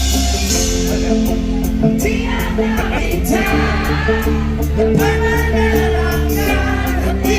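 Live band music with a steady beat and bass, and a voice singing over it from about two seconds in.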